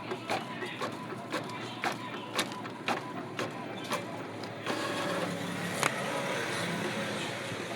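Epson L-series inkjet printer mechanism clicking about twice a second, then running with a steadier mechanical whir and one sharper click.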